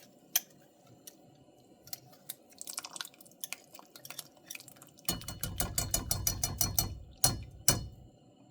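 Clinks and scraping of a utensil working home-canned chicken out of a glass canning jar: a few scattered clicks, then a rapid run of clinking and scraping lasting about two seconds, ending in two sharper knocks.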